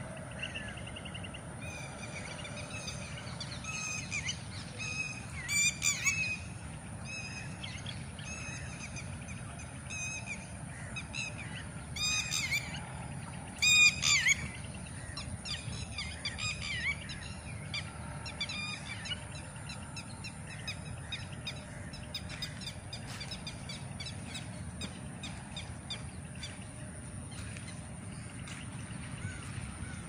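Birds calling: runs of short, sharp, repeated calls, loudest about six seconds in and again around twelve to fourteen seconds, fading to fainter chatter in the second half, over a steady low rumble.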